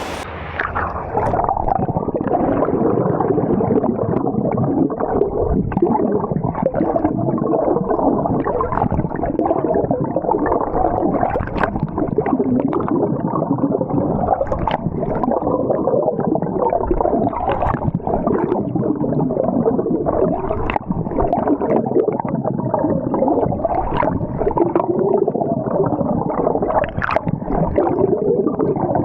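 Muffled underwater churning and gurgling of water, heard through a camera microphone that has gone under the surface.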